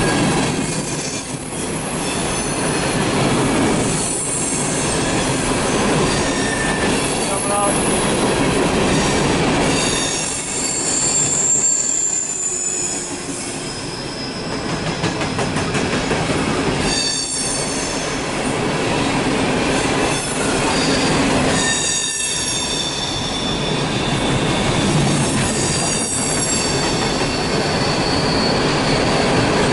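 Empty coal hopper cars of a freight train rolling past close by, wheels rumbling and clattering on the rail, with high-pitched wheel squeal coming and going a few times.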